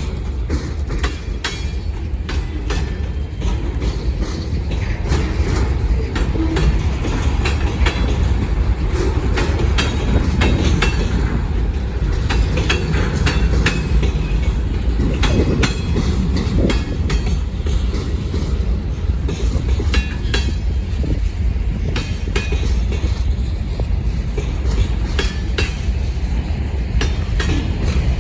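Manifest freight train's railcars rolling past at steady speed, a continuous low rumble with wheels clicking over rail joints throughout.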